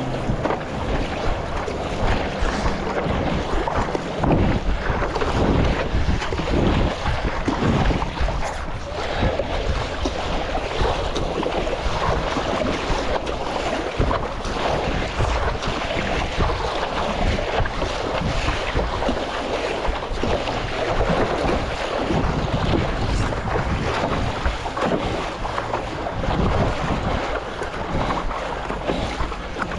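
Wind buffeting the microphone over water splashing and sloshing around a stand-up paddleboard on the sea, in uneven gusts.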